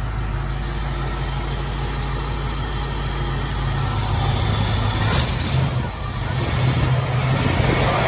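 Ford 302 small-block V8 idling steadily in a 1966 Mustang, heard close to the open engine bay.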